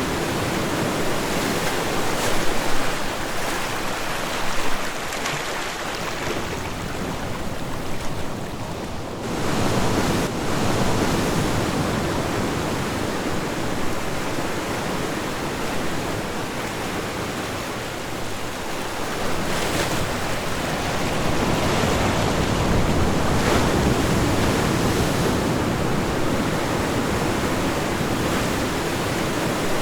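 Ocean waves breaking on a shore: a continuous surf wash that swells and eases every several seconds, with a brief lull about nine seconds in.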